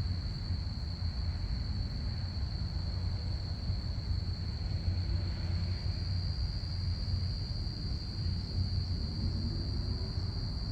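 Crickets chirping in a steady, continuous high-pitched trill over a low rumble, with a faint drone that starts to rise near the end.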